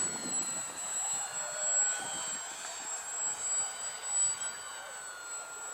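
Radio-controlled model airplane in flight, its motor a steady high whine that drifts slowly up and down in pitch as it flies past.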